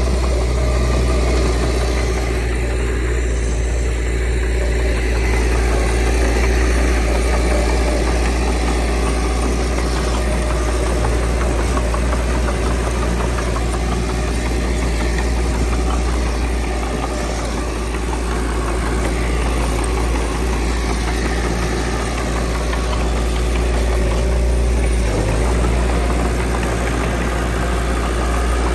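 Diesel engine of heavy earthmoving machinery running steadily, with a deep, constant hum.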